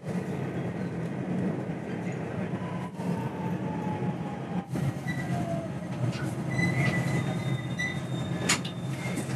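Electric commuter train braking as it pulls into a station, heard from inside the carriage: a steady running rumble under a thin motor whine that slides down in pitch as the train slows, with short high squeals from the wheels and brakes in the second half.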